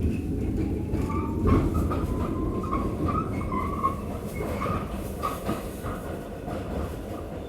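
R46 subway car under way: the traction motor whine rises in pitch and then levels off as the train gathers speed, over a steady rumble of wheels on track, with short squeals from the wheels repeating every half second or so.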